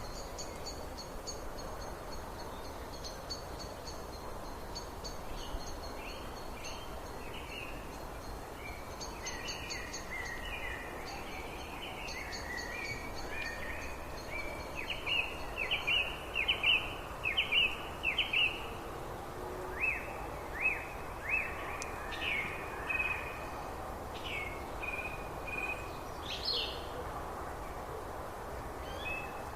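Birds singing over a steady background hiss: a high, rapid buzzy trill for the first twelve seconds or so, then runs of short, quick, downward-sliding chirps, loudest about halfway through.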